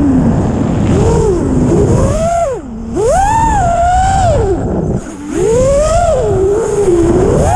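Hyperlite 2408.5 brushless motors on a 6-inch FPV racing quadcopter whining, their pitch sweeping up and down with the throttle. Twice the throttle is chopped, about a third of the way in and again past the middle, and the whine drops low and quieter before climbing again.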